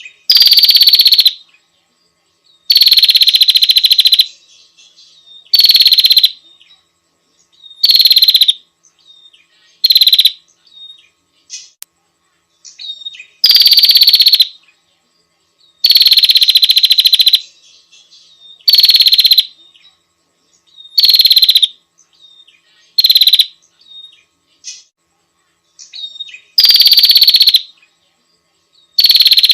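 Female prinia (prenjak) calling, used as a lure to call in males: loud, high-pitched call bursts about a second long, each dipping slightly in pitch at its start, repeated about every two to three seconds, with faint short chirps in between.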